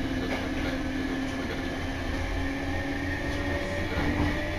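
Hankyu electric train running, heard from inside the carriage: a steady low rumble under a steady motor hum that rises slightly in pitch near the end, with a few faint wheel clicks.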